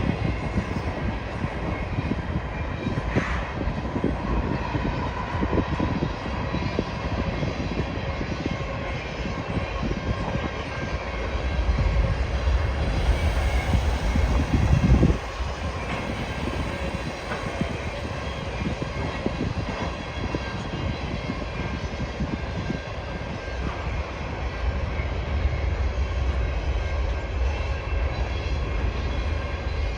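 Freight cars of a long intermodal and potash train rolling past, with a steady rumble and clatter of steel wheels on the rails. The rumble swells about twelve seconds in and drops off suddenly a few seconds later.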